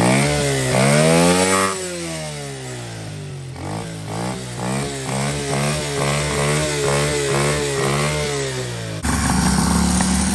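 Small dirt bike engine revving, its pitch rising and falling. From about four seconds in it goes through quick repeated throttle blips, about two a second. Near the end it changes abruptly to a steadier, lower engine sound.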